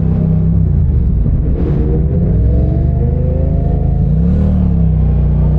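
Motorcycle parallel-twin engine running through an aftermarket racing exhaust while creeping through heavy traffic, the engine note rising and falling with small throttle changes.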